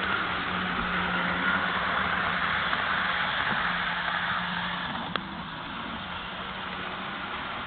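HO scale model locomotive running on its track with a steady hum. A single sharp click comes about five seconds in, after which the sound is a little quieter.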